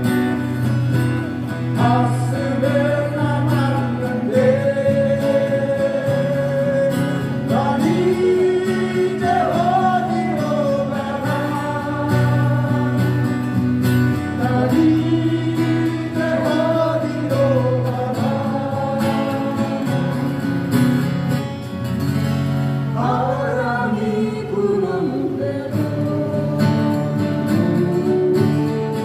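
Live song with acoustic guitars: a sung melody with long held notes over steady guitar accompaniment.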